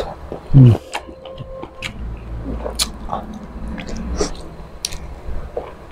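A person eating spicy squid adobo by hand: chewing and biting with scattered mouth clicks and smacks. There is one short, loud, low sound about half a second in.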